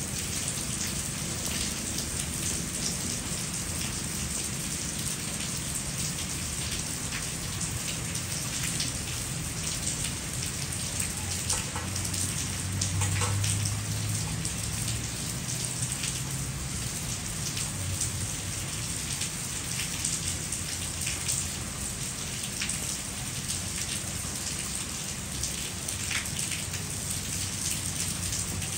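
Steady rain falling, with many single drops striking close by. A brief low hum rises near the middle.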